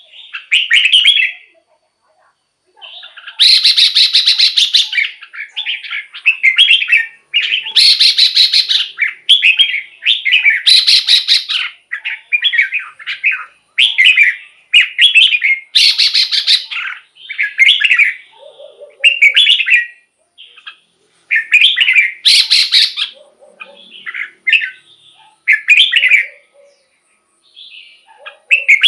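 Red-whiskered bulbul singing short, quick whistled phrases one after another, with harsh, scratchy notes mixed in every few seconds.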